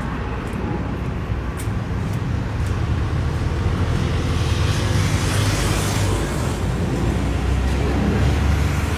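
Road traffic noise from cars: a steady low rumble with a hiss that swells and fades about halfway through.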